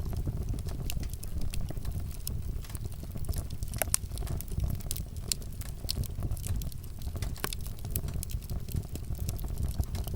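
Wood fire crackling, with frequent sharp pops over a steady low rumble; the loudest pops come about four seconds in and again near eight seconds.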